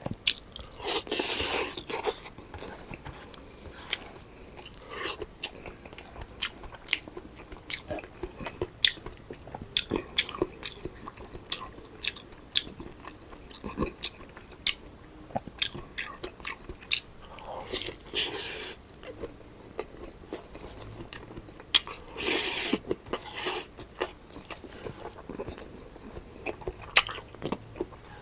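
Close-miked eating: a person chewing and biting food, with many small sharp wet clicks from the mouth. There are a few longer, louder bursts of noise about a second in, past the middle, and again later on.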